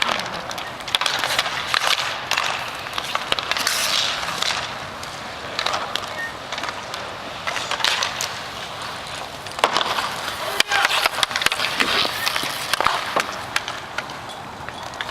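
Hockey play on a rink: skates rolling and scraping on the playing surface, with scattered sharp clacks of sticks and puck.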